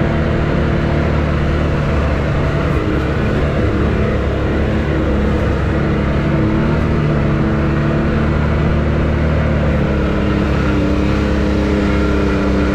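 Can-Am X3 side-by-side engine running steadily under way, its pitch shifting slightly near the end.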